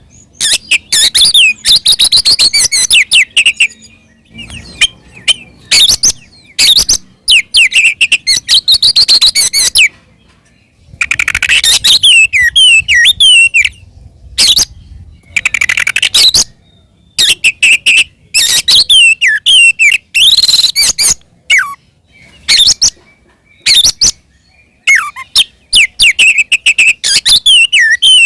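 Oriental magpie-robin in loud, continuous fighting song: bursts of sweeping whistles and rapid chattering notes lasting a second or two each, broken by short pauses.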